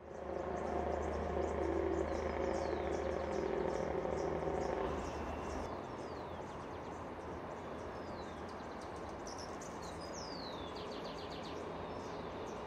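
Birds chirping with short falling whistles and a quick trill, over a steady background hiss. A low, steady hum sits underneath for the first few seconds and fades out about five seconds in.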